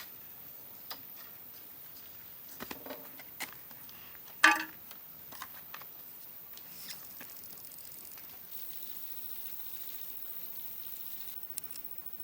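A few scattered clicks and knocks over a faint steady hiss, with one louder knock about four and a half seconds in.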